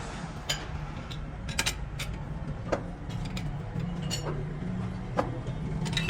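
Workshop noise: a steady low hum with irregular sharp clicks and knocks.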